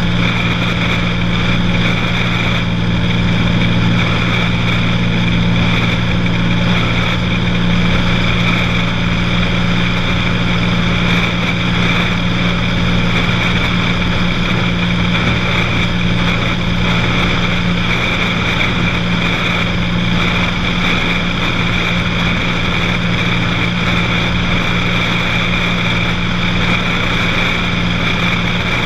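Cessna 182's piston engine and propeller droning steadily in flight, holding an even pitch and level.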